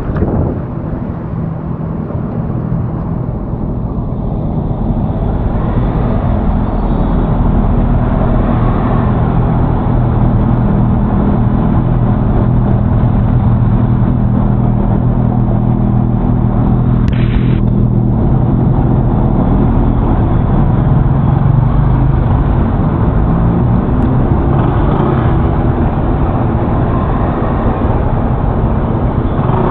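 Honda Forza 350 scooter's single-cylinder engine running steadily while riding, under heavy wind and road noise on the camera microphone, growing a little louder over the first ten seconds.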